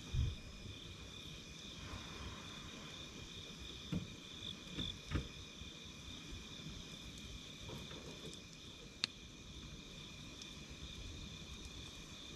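A steady chorus of night insects singing in two high, even bands, over a wood campfire that gives a few soft pops about 4 to 5 seconds in and one sharp crackle about 9 seconds in.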